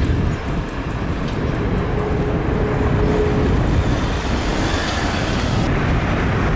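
Jet airliner engine noise: a loud, steady rumble with a faint steady whine for a moment midway.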